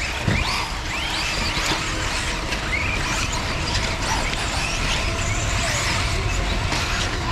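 Several radio-controlled off-road cars racing on a dirt track. Their electric motors whine, overlapping and rising and falling in pitch as the cars accelerate and brake.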